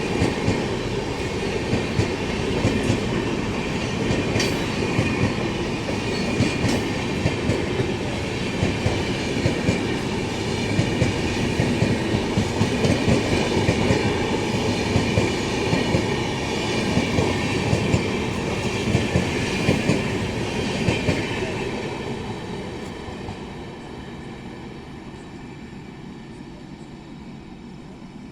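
Railway coaches rolling past, their wheels clacking in a steady repeating rhythm over the rail joints under a continuous rumble. The sound fades away over the last several seconds as the train moves off.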